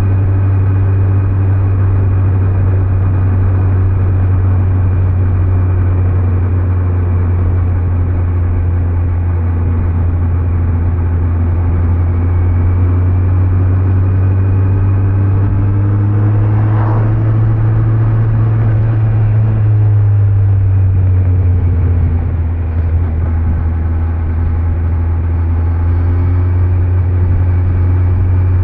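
Kawasaki Z900's 948 cc inline-four engine through its stock exhaust, running steadily at road speed, with tyre and road noise. The engine note rises a little just past halfway, then falls back a few seconds later.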